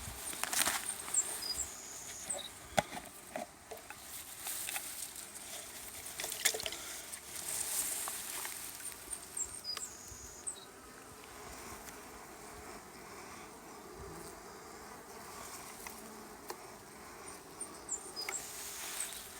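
Honey bees buzzing around the hive entrance, with scattered short clicks and rustles of handling, busier in the first half.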